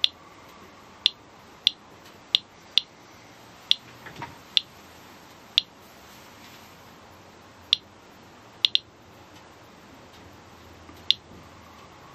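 Radiation Alert Inspector+ Geiger counter clicking once for each detected count: about a dozen short, high-pitched clicks at irregular, random spacing, roughly one a second, two of them almost together, the slow rate of a low-level reading around 0.2 µSv/hr.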